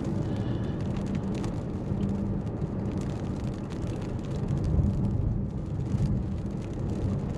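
Steady engine and road noise heard inside a moving car's cabin, a continuous low rumble with a steady hum.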